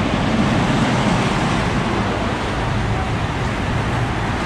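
Amusement-park ride train in motion: a steady rumble of the moving train.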